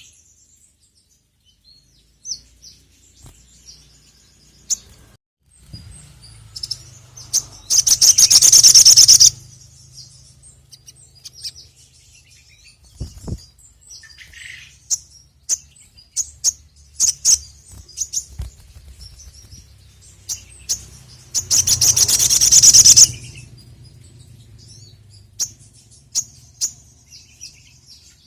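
Little spiderhunter (sogok ontong) singing: short sharp high chirps scattered throughout, broken twice by a loud, fast rattling trill lasting a second or two, about eight seconds in and again about twenty-one seconds in. A faint low hum sits underneath from about six seconds in.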